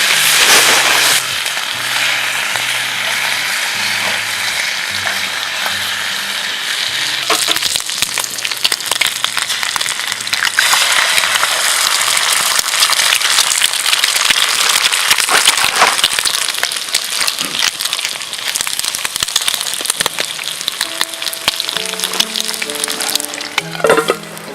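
Food sizzling and frying in a hot pan: a steady crackling sizzle with many small pops.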